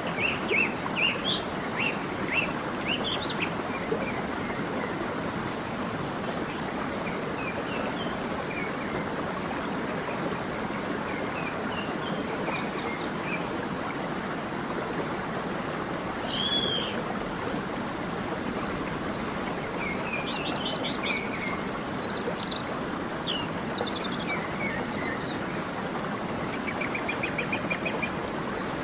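Stream running steadily, with birds chirping over it: quick chirps in the first few seconds, a louder two-part arching call about sixteen seconds in, a burst of twittering a little after twenty seconds and a fast trill near the end.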